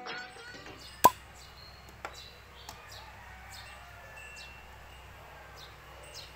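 Quiet early-morning ambience: short high bird chirps repeating every half second or so over a faint low hum, with one sharp, loud click about a second in and two softer clicks after it.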